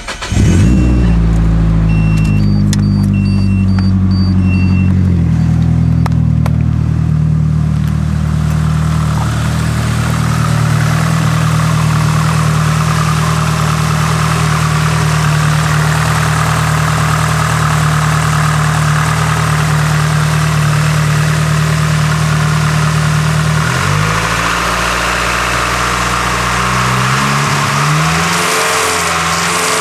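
Nissan SR20DET turbocharged four-cylinder engine cold-starting: it catches right away and runs at a steady fast idle. About 24 s in the idle drops and wavers.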